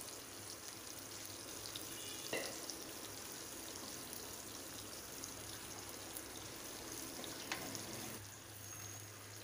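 Cashews, cumin seeds, green chillies and curry leaves frying in oil and ghee in a pan, a faint steady sizzle. A wooden spatula stirring them gives a couple of light knocks.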